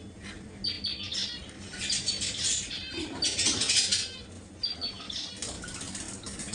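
A group of caged pet birds chirping and squawking in many short, high calls, with wing flutters among them. The calls are busiest around the middle.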